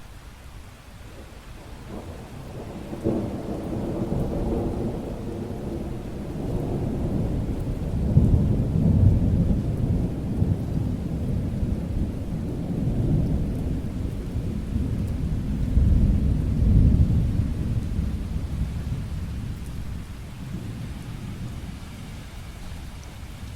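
Long rolling thunder over steady rain: the rumble builds from about two seconds in, swells loudest twice through the middle, and eases away near the end.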